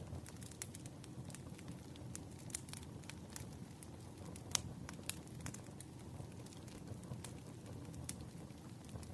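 Firewood burning: irregular sharp crackles and pops over a steady low rumble, with one louder pop about four and a half seconds in.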